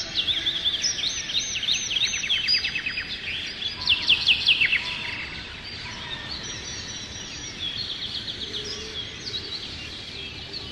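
Several songbirds chirping and trilling over a steady background hiss. The calls are busiest in the first half, with a fast trill about two seconds in and a few loud chirps around four seconds.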